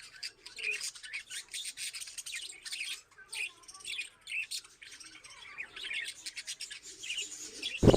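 Small birds chirping over and over in quick, irregular bursts. Just before the end, a loud, steady noise starts abruptly.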